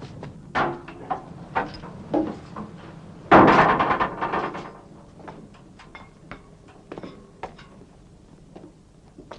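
Scattered knocks and taps, with a louder rushing clatter about three seconds in that dies away over a second or so.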